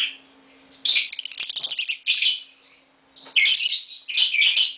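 Lovebirds chirping: bursts of rapid, high-pitched chirps with short pauses between them.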